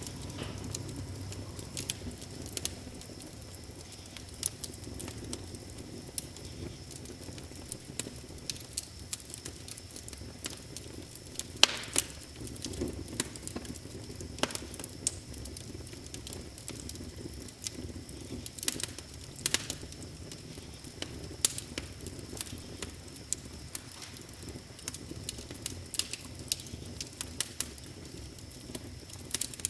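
Wood fire crackling in a fireplace: a low hiss of flames with irregular sharp pops and snaps, one louder crack about twelve seconds in.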